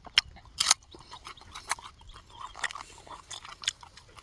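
A person chewing a mouthful of banana close to the microphone: irregular wet mouth clicks and smacks.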